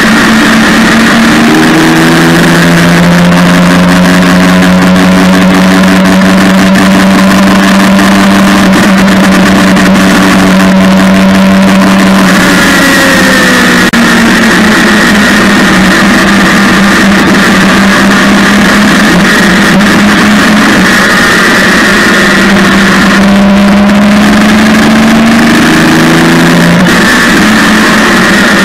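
Yamaha MT-09's inline three-cylinder engine running under way, its pitch holding steady, falling about halfway through and rising again twice in the last third as the bike slows and accelerates. A constant rush of wind and road noise runs under it.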